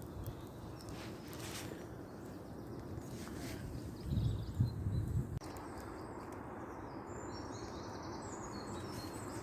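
Woodland outdoor ambience with faint bird chirps in the second half. A few low thumps or handling noises come about four to five seconds in.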